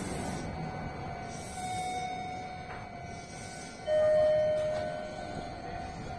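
A red Meitetsu electric train standing at a station platform, with a steady hum and light background music; about four seconds in a single loud bell-like chime rings out and fades over about a second.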